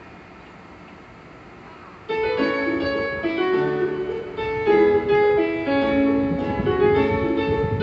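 Station departure melody playing over the platform loudspeakers, a bright electronic keyboard tune that starts suddenly about two seconds in; it signals that the train is about to leave and the doors will close.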